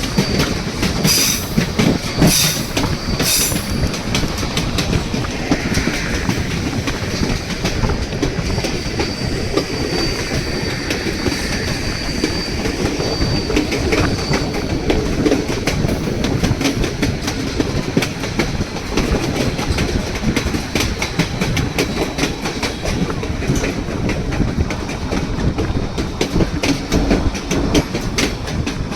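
White Pass & Yukon Route narrow-gauge passenger train running, its steady rumble broken by a constant clickety-clack of wheels over the rail joints. A thin, high wheel squeal comes in about eight seconds in and lasts several seconds.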